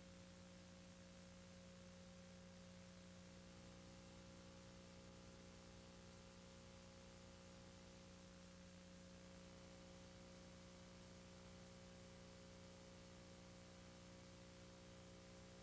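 Near silence: a faint, steady electrical hum with even tape hiss from VHS playback, with no sound on the tape itself.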